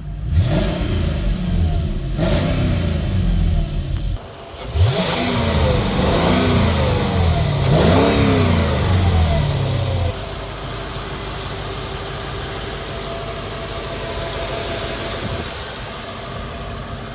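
The 2005 Mercedes-Benz SL500's 5.0-litre V8 runs with its pitch rising and falling, and cuts out briefly about four seconds in. It comes back with a sharp rise and is revved in several blips, then settles into a steady idle about ten seconds in.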